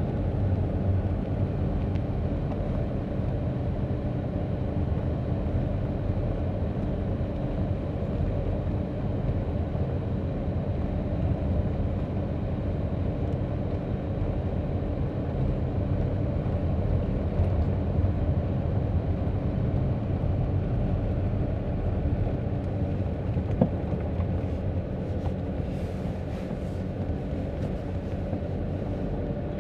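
Car driving along a road, heard from inside the cabin: a steady low engine and tyre rumble.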